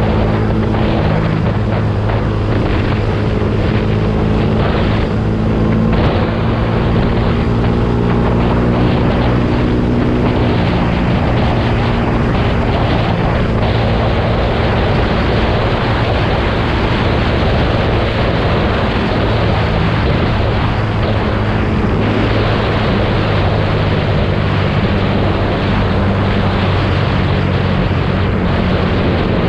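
Exhaust of a Yamaha YZF-R125's single-cylinder four-stroke engine running steadily, its pitch shifting in small steps, with wind noise on the microphone.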